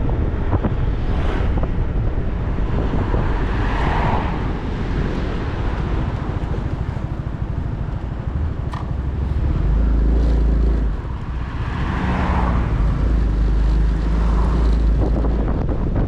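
Motorcycle riding on the road: the engine and tyres run under heavy wind noise buffeting the microphone. Two swells of traffic noise rise and fall, one about four seconds in and one about twelve seconds in.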